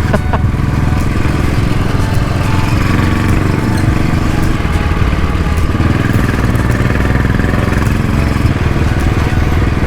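Motorcycle engine running steadily as the bike rides along, with a constant noisy rush over it.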